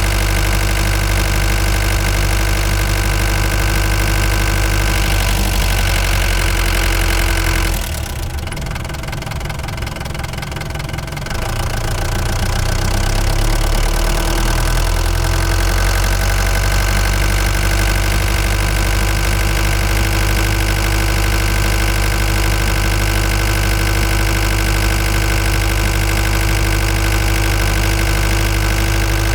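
Ford Transit Mk5 van engine running while driving, a steady drone. About eight seconds in it goes quieter and loses its deep low end for about three seconds, then builds back up.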